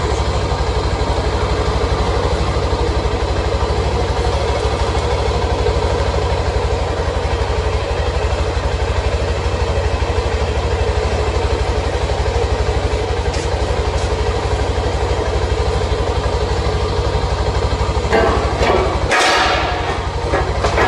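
Motorcycle engine idling steadily, with a short noisy burst near the end.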